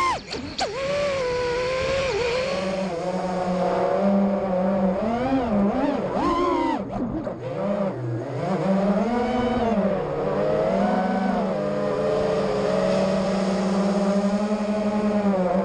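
Emax Buzz FPV freestyle quadcopter's brushless motors and propellers whining, the pitch rising and falling with the throttle.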